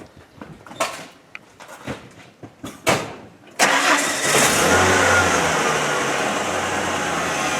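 A few clicks and knocks, then about three and a half seconds in a pickup truck's engine fires abruptly and settles into a steady idle.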